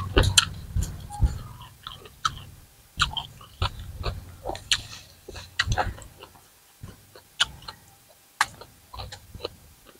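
Close-up chewing of raw shrimp and crisp raw vegetables: irregular wet crunches and mouth sounds, thinning out for a while past the middle.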